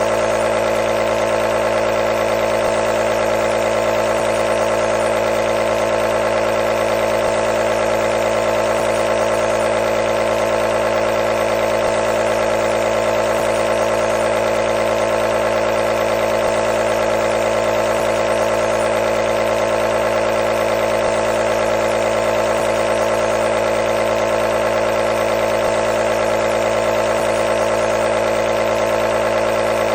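Nebulizer's air compressor running with a steady buzzing hum, unchanging throughout.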